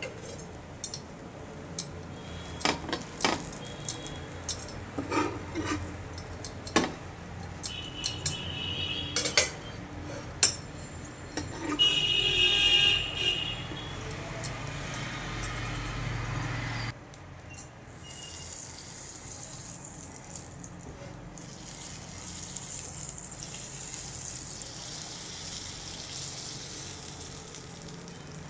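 Kitchen utensils clinking and knocking against dishes, with a louder rough stretch in the middle. From a little past halfway it turns into a steady sizzle of frying on a hot griddle pan.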